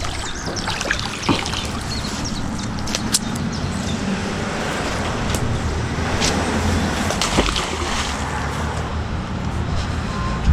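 Water sloshing and trickling over a steady low rumble, with a few light clicks and knocks.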